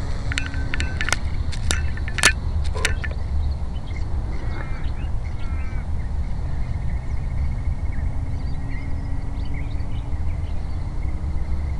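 Drone of a radio-controlled Hawker Hurricane model plane's motor and propeller in flight, its pitch rising slowly near the end, over a steady low rumble of wind on the microphone. Birds chirp sharply several times in the first few seconds and call again a little later.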